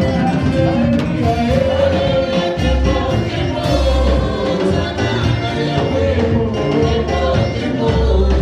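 Gospel praise-and-worship band playing with several singers, over sustained bass notes and a steady beat.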